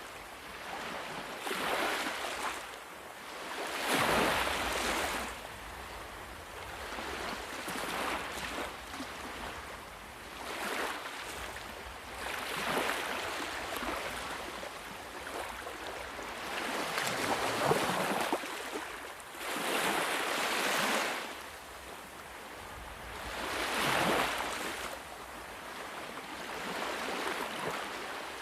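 Sea waves breaking and washing ashore, the surf swelling and ebbing every few seconds.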